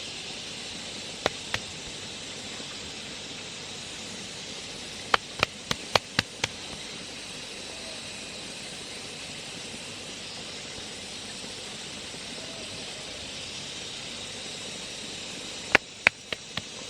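Sharp knocks, as of hard objects striking, in three groups (two, then six in quick succession, then four or five), over a steady high hiss of outdoor background.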